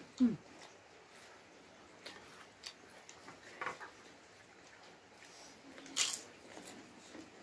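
Close-up eating sounds: scattered crisp crunches and chewing of potato chips and raw cucumber, with a loud crunchy bite into a cucumber slice about six seconds in. A brief hum with falling pitch comes just after the start.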